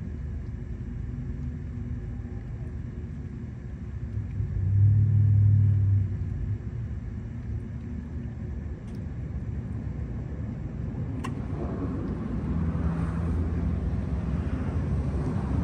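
Low rumble of road traffic, with one vehicle's engine swelling louder for about a second and a half around five seconds in. There is a single sharp click a little past the middle.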